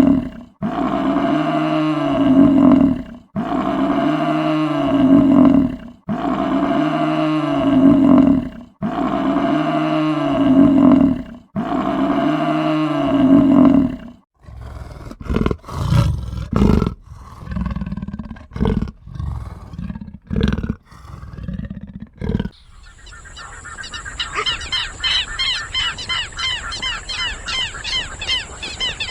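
A large wild animal roaring: about five long, pitched calls evenly spaced about two and a half seconds apart, then a run of short calls. About 22 seconds in, a different recording takes over with fast, high, repeated calls.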